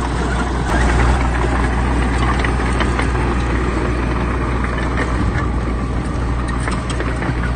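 Heavy earthmoving machine's diesel engine running steadily, with a few faint metallic clicks over it and a slight swell about a second in.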